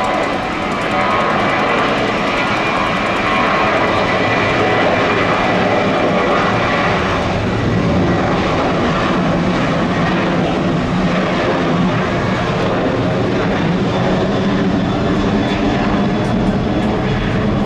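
Boeing 747 jet engines running loud as the airliner passes close by: a steady engine noise with whining tones, swelling over the first second and then holding.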